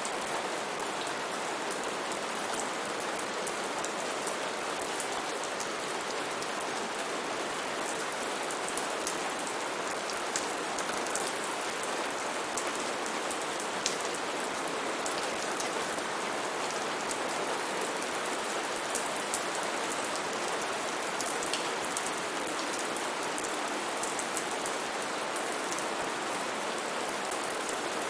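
Steady, even rain hiss with many individual drops ticking and pattering on leaves and surfaces.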